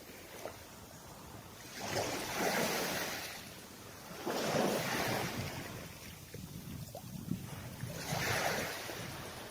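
Small waves washing onto the shore: three swells of surf, each rising and falling over a second or two, over a low steady wash.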